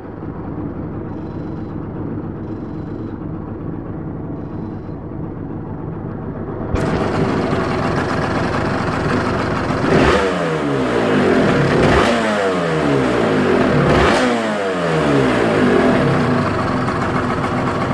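Yamaha TZR 250 3XV's two-stroke V-twin engine running on its first start. It gets suddenly louder about seven seconds in, then is blipped three times about two seconds apart, the revs falling away after each blip.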